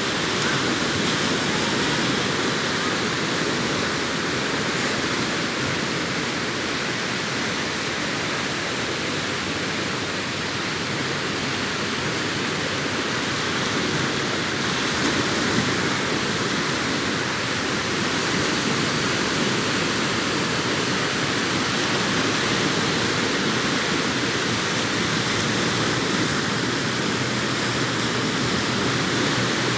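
Sea surf washing onto the beach: a steady, unbroken rush of breaking waves in which no single wave stands out.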